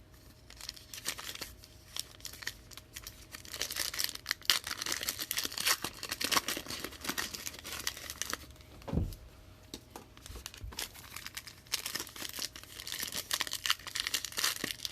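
Plastic wrapping on sealed trading card boxes and packs crinkling and tearing as it is ripped open, in irregular bursts, with a soft thump about nine seconds in.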